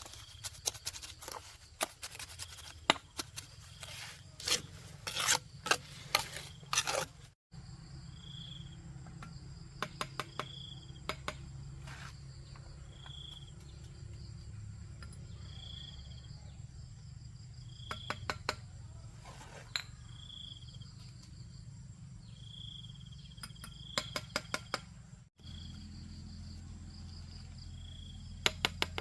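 Insects chirping outdoors, a short high chirp every two to three seconds over a steady low background. A run of sharp clicks and taps fills the first several seconds, and a few more short bursts of clicks come later.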